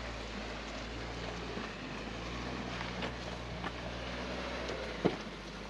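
Suzuki Jimny's engine running steadily under load as it crawls up a rocky off-road climb. A few light knocks are heard, and a louder sharp knock comes about five seconds in.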